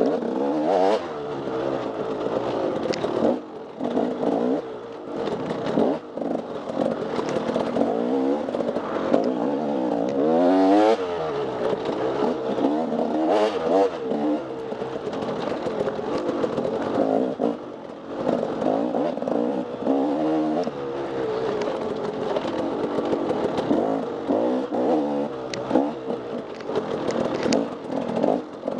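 Off-road dirt bike engine revving up and down over and over as the rider works the throttle through the trail, with some clatter and scraping mixed in.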